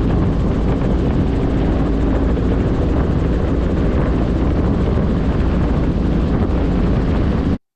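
Robinson R44 helicopter in flight: steady, loud rotor and engine noise that cuts off abruptly near the end.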